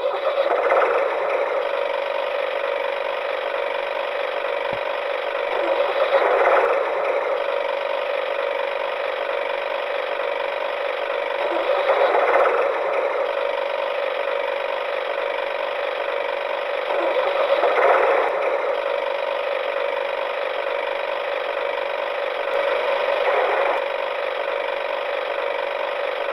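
Small electric motor and plastic gears of a toy tractor running steadily with a constant whirr, swelling in loudness briefly about every six seconds.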